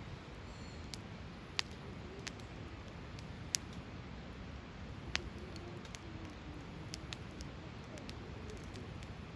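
Hardwood campfire burning with a steady low rumble of flame, broken by sharp crackles and pops of the burning wood, three of them louder than the rest.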